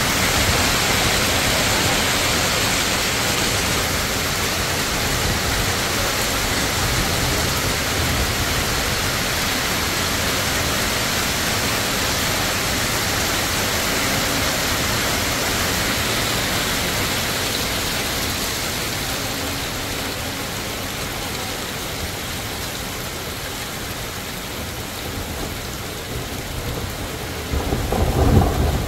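Heavy downpour of rain and hail with a steady hiss, easing slightly in the second half. A louder low rumble comes near the end.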